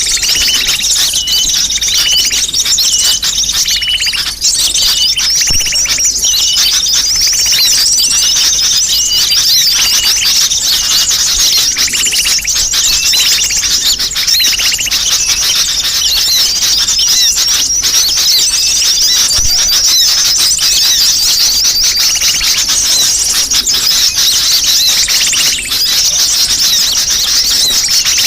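Bird-lure recording of sunbirds: a dense, unbroken chorus of rapid, high-pitched twittering and chirping calls from many small birds at once, with a run of repeated lower notes in the first several seconds.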